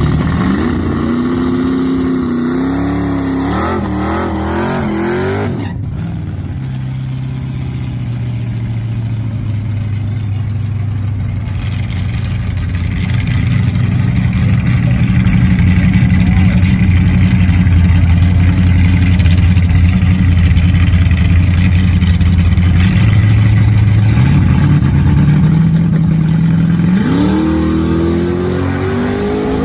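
Ford Windsor small-block V8 drag engine revving in rising pulls, then, after a cut, idling steadily at the starting line. Near the end it is brought up to a higher held rpm and then launches at full throttle, its pitch climbing fast.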